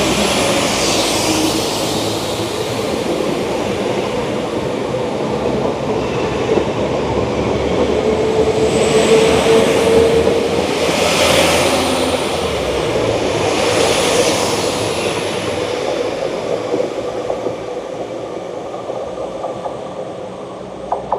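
Diesel multiple-unit train running past, a steady engine tone over rumbling noise, growing louder through the middle and fading away toward the end.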